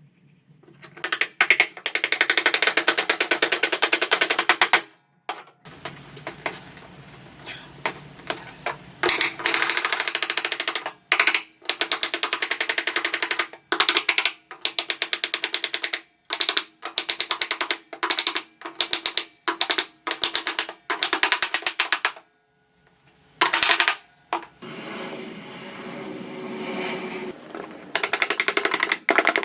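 Handheld electric power tool run in repeated bursts, several lasting a few seconds and many short ones, each starting and stopping abruptly.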